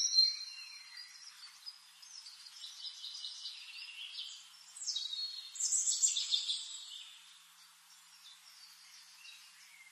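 Songbirds chirping and singing, with quick trills and sweeping calls overlapping; loudest at the start and again about five to seven seconds in, then fading to faint chirps.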